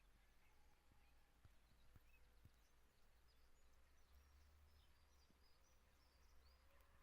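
Near silence: faint outdoor ambience with a few faint, high bird chirps, mostly in the second half.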